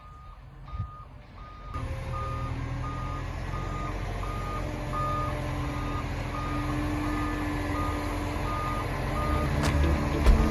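Concrete truck reversing: its reversing alarm beeps steadily about twice a second over the truck's engine running, which comes in louder about two seconds in and builds slowly.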